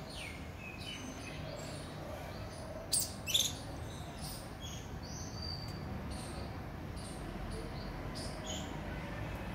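Birds chirping: short, high, scattered calls, several sweeping downward, with two louder sharp calls about three seconds in, over a steady low background hum.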